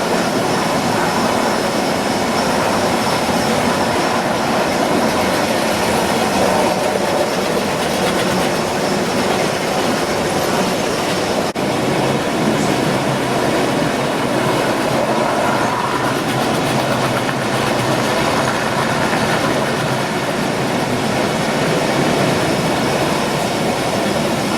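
G scale model train running on its track, with a steady rolling clatter of wheels on the rails.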